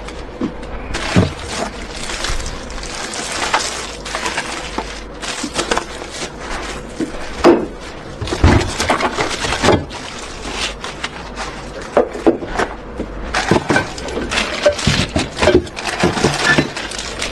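Flat-pack furniture parts and their packaging being handled and sorted: irregular knocks and clatter of wooden panels and hardware over rustling.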